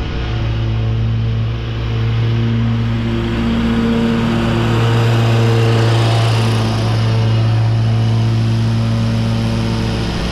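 Commercial lawn mower engine running steadily while mulching leaves, with a strong low hum and a few higher tones that shift slightly in pitch, a little louder around the middle.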